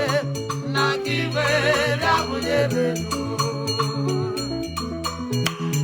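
Igbo gospel praise band playing: a moving bass line under steady shaker and drum strokes, with a wavering, vibrato-laden melody line over it early on.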